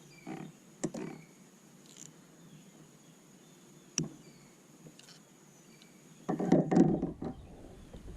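Handling noises on a kayak while working at a hook in a blue catfish's mouth: a couple of sharp knocks, then a loud second-long burst of scraping and thumping about six seconds in.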